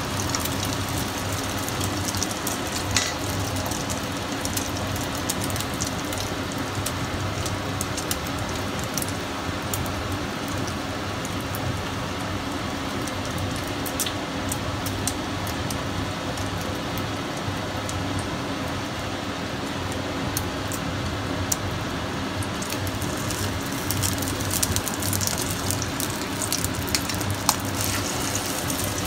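Egg batter with oysters and spring onions frying in shallow hot oil in a pan: a steady sizzle with frequent small crackles and pops. A steady low hum runs underneath.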